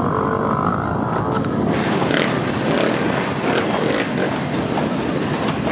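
Many off-road motorcycle engines running and revving together, a dense continuous din that turns harsher about two seconds in.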